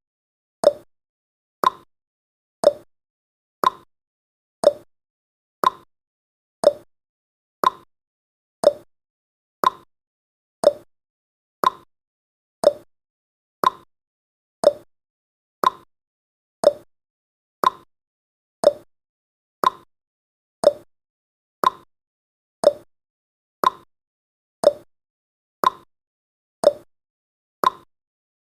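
Countdown timer's clock-tick sound effect, a short sharp tick about once a second, evenly spaced.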